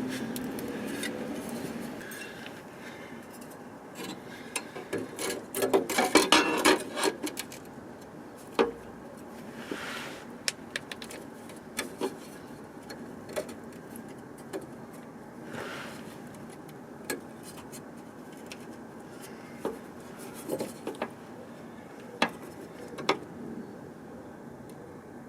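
Metallic clanks and knocks of a cut steel repair piece being handled and offered up against the vehicle chassis, with a quick run of knocks about six seconds in and single knocks scattered after it. A low hum fades away in the first two seconds.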